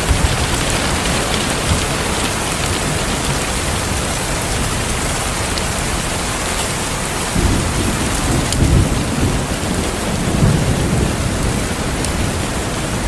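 Steady heavy rain hissing, with a low roll of thunder rumbling in about seven seconds in and fading out after about eleven seconds.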